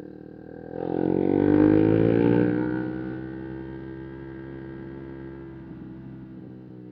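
125 cc single-cylinder motorcycle engine revving hard from about a second in, its pitch climbing to a loud peak, then easing back to a steady, quieter run after about three seconds.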